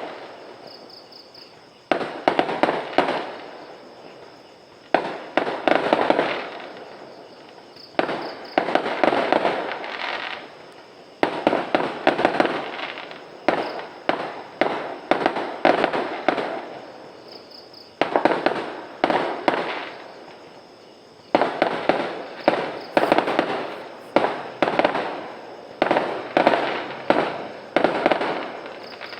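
Fireworks going off in repeated volleys: each starts with a sharp bang and runs into a rapid flurry of pops and crackles that dies away, with a new volley every few seconds.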